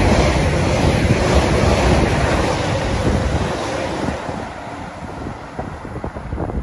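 EMR Connect Class 360 electric multiple unit passing close at speed: a loud rush of wheels and air that is loudest at the start and fades over the next few seconds as the train draws away, with a faint steady tone under it. Wind buffets the microphone.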